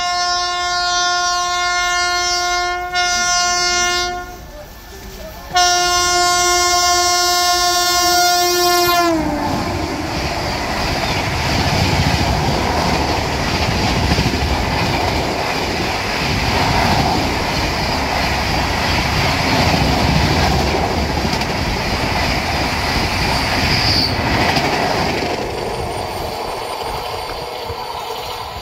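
A WAP-7 electric locomotive's horn sounds in two long blasts, the second dropping in pitch as the locomotive passes at speed. Then comes a steady rush and clatter of the passenger coaches' wheels on the rails at about 130 km/h, easing off near the end.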